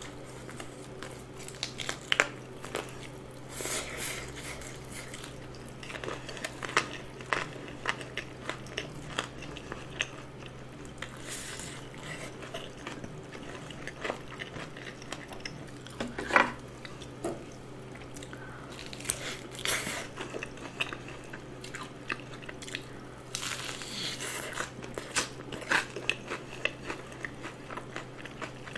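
Close-miked biting and chewing of a seasoned fried chicken drumstick: crunches of crisp coating and wet mouth sounds coming irregularly throughout. A steady low hum lies underneath.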